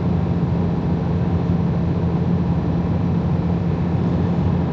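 Freightliner Cascadia semi-truck under way, heard from inside the cab: a steady engine drone with a constant low hum under continuous road and wind noise.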